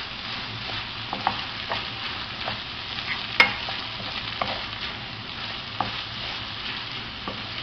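Rice frying in oil in a pan, with a steady sizzle, and a spoon knocking and scraping against the pan as it is stirred; one sharper knock about three and a half seconds in.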